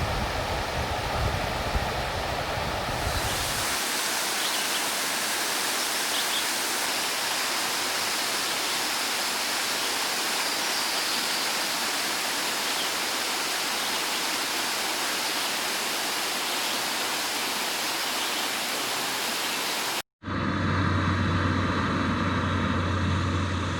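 Waterfall rushing steadily, an even wash of falling water. About 20 s in it cuts off abruptly and a different steady noise with a low hum follows.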